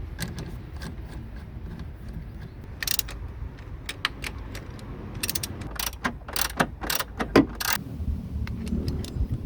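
Hand tools working on the car's engine and transmission mounts: ratchet-wrench clicking and metal clinks, in several short bursts over a steady low hum.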